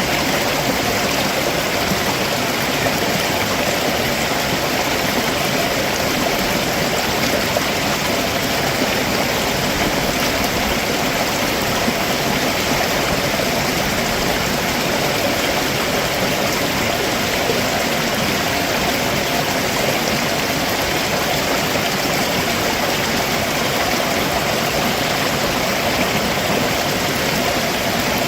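Stream water running steadily over rocks below a waterfall, an even, continuous rushing.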